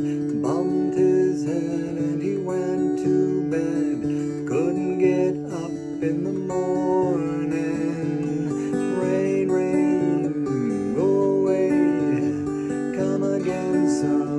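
Acoustic guitar strumming, with a wordless melody line over it that slides between notes.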